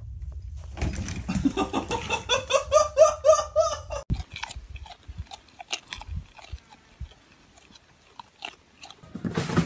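An animal giving a quick run of short, high-pitched cries, about four a second for some three seconds, followed by scattered small clicks and knocks and a short noisy burst near the end.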